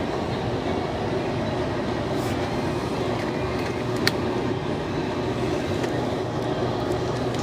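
Steady low rumbling store ambience, with a single sharp click about four seconds in.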